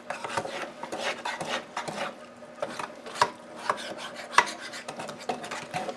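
Wire whisk stirring cornbread batter in a bowl by hand: irregular scraping and clicking of the whisk against the bowl, over a faint steady hum.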